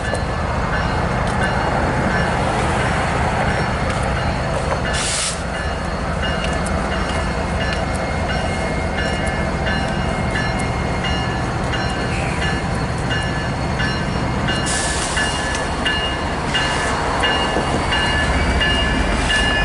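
Long train rolling past close by: a steady, loud rumble of cars on the rails, with short high-pitched tones repeating at an even pace and a few brief bursts of hiss.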